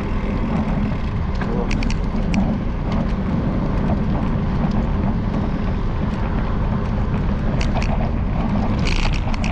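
Steady wind rumble on the microphone of a bicycle-mounted camera while riding, with scattered light clicks from the camera mount rattling.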